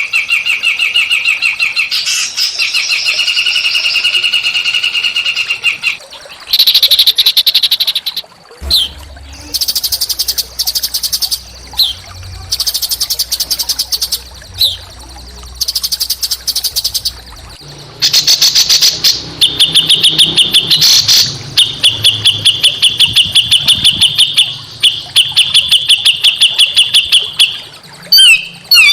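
Small songbirds singing harsh, rapid chattering trills of fast-repeated chirps. The song comes in long runs of several seconds broken by short bursts and brief pauses.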